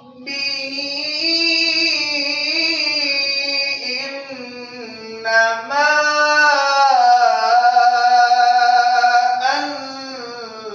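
Quranic recitation in a melodic tajweed style: a single voice drawing out long, slowly bending held notes in two phrases, with a short breath about five seconds in.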